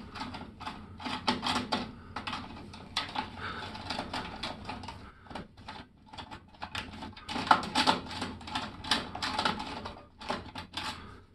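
Irregular clicking and tapping of small hard parts and tools being handled, with quick runs of clicks and short gaps.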